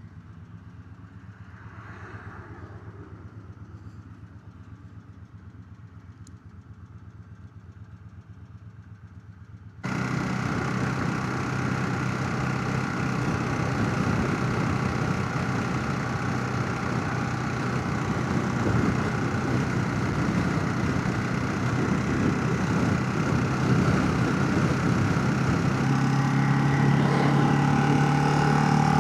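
Motorcycle engine heard faintly at first, then about ten seconds in a sudden jump to loud engine and rushing wind noise of riding. Near the end the engine pitch climbs as the bike accelerates.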